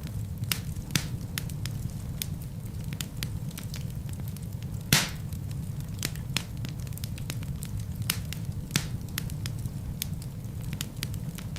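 Wood fire in a fireplace crackling over a steady low rumble, with frequent small snaps and one louder pop of the burning logs about five seconds in.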